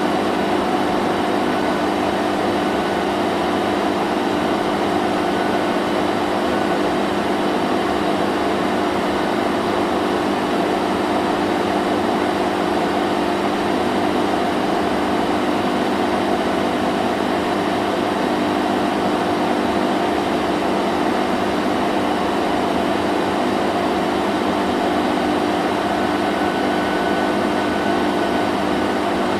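Vacuum cleaner running steadily: a constant whooshing drone with a low hum underneath that does not change.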